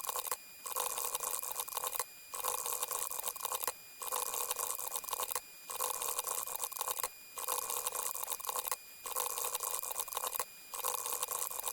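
A short clip of water pouring, played over and over as a sound effect. It restarts about every 1.7 seconds after a brief silent gap.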